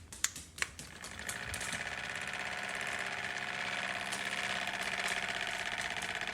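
Small handheld electric fan with a couple of clicks, then its motor and blades spinning up and running with a steady whir.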